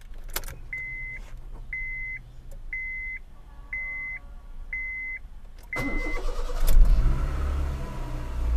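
A dashboard warning chime beeps six times, about once a second, with the ignition on. Then the car's petrol engine cranks briefly and starts from cold, catching with a flare and settling into a fast idle around 2000 rpm, the computer's raised cold-start idle.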